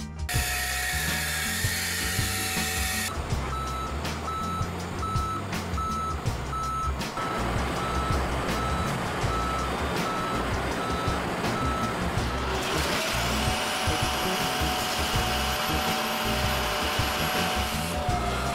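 Side-loader garbage truck's reversing alarm beeping evenly for several seconds, then a whine that rises in pitch and holds as the truck's hydraulics run, over the truck's working noise.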